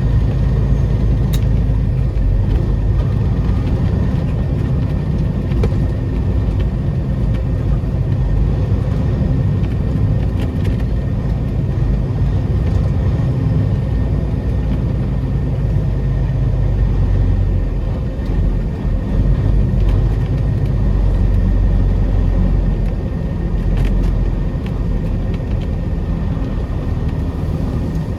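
Semi truck's diesel engine running at low speed under load, heard from inside the cab as a steady low rumble, with brief dips in level a couple of times in the last third.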